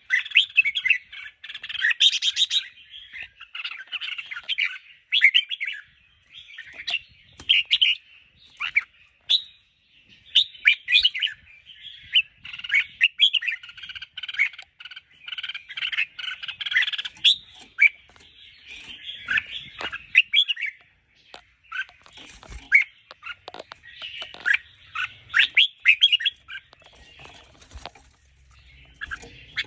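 Red-whiskered bulbuls singing: quick chattering, warbling phrases repeat one after another, with only brief pauses between them.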